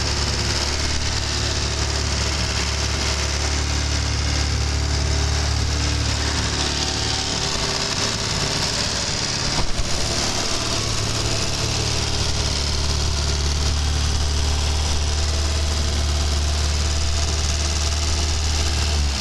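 1977 MG Midget 1500's Triumph 1500cc four-cylinder engine with twin carburettors idling steadily. A single sharp click sounds about ten seconds in.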